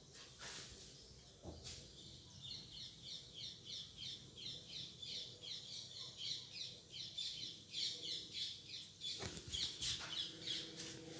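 A bird chirping in a fast, regular series of short high notes, about four a second, starting about two seconds in. A couple of knocks near the end.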